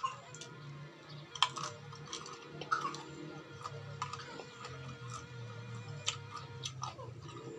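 A person chewing crisp raw fruit and vegetables close to the microphone: irregular crunches and wet mouth clicks, a few seconds apart, over a faint low hum.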